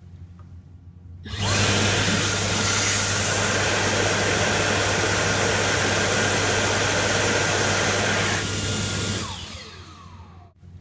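Dyson hand dryer starting suddenly about a second in and blowing hard, a steady loud rush of air over a motor hum with a faint high whine. Near the end it cuts off and the motor spins down with a falling whine.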